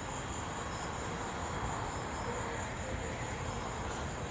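Steady outdoor night ambience: crickets trilling in one high, unbroken band over a low, steady rumble.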